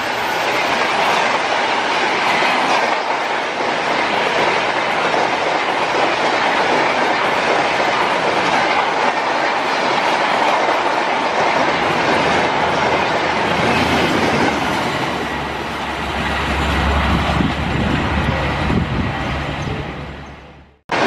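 A train running along track with a steady clatter of wheels. It gets heavier in the low end in the last few seconds, then cuts off abruptly near the end.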